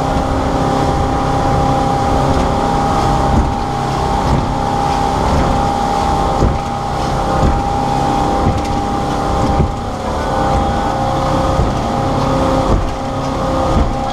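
Small motorboat's engine running steadily at full throttle, with rushing wind and water noise.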